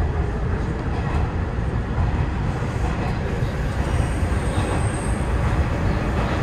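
Hanshin 9000 series electric train running through an underground tunnel, heard from inside the front of the car: a steady rumble of wheels and motors on the rails. A thin high wheel squeal comes in briefly about four seconds in.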